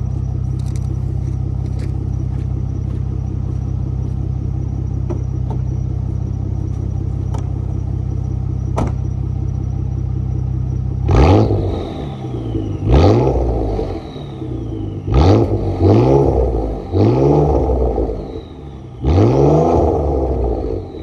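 A straight-piped 2013 Ford Taurus SHO's 3.5-litre twin-turbo EcoBoost V6, with its mufflers, resonator and third catalytic converter removed, idles steadily. About eleven seconds in it is revved sharply about six times, each rev rising and falling quickly, with a high falling whistle after some of the revs.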